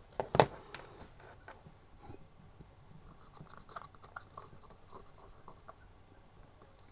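Handling of a 1973 Gabriel/Marx action figure as its plastic ball-socket arm joint is worked back and forth and dabbed with kitchen roll: faint scratching and rubbing with scattered small plastic clicks, and one sharper click about half a second in.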